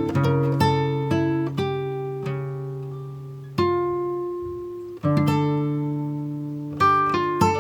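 Background music: acoustic guitar picking single notes and chords that ring out and fade, with fresh phrases about three and a half seconds in, at five seconds and near the end.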